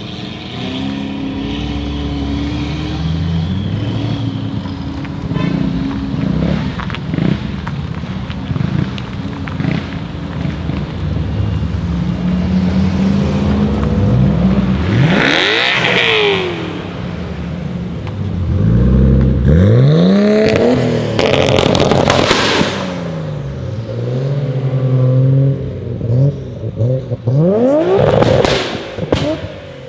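Several sports cars pulling away one after another, their engines revving up and dropping off in repeated sweeps, with sharp exhaust pops and crackles in the loudest bursts.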